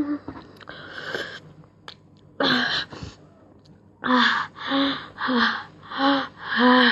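A person gasping and panting from the burn of very hot chillies: a hard breath about two and a half seconds in, then a run of five short pants, each with a moan in the voice, about one every 0.6 seconds.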